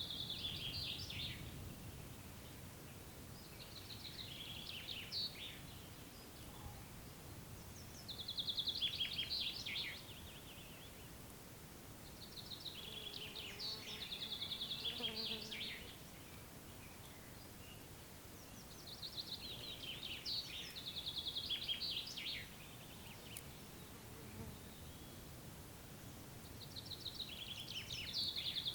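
A songbird singing a short, quick trilled phrase that falls in pitch at the end, repeated about every five seconds. A faint fly buzz and a low outdoor hum sit underneath.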